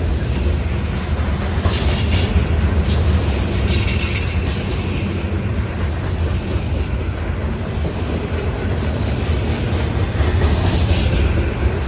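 Loaded grain train's freight cars rolling past, a steady low rumble of wheels on rail. Brief high-pitched wheel squeals break in a few times, the longest about four seconds in.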